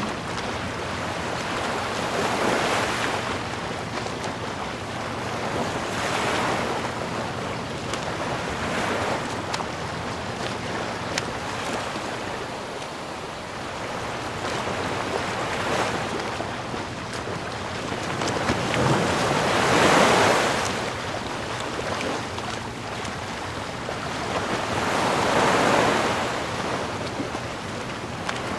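Sea waves breaking and washing in, a rushing surge every few seconds, the biggest about twenty seconds in.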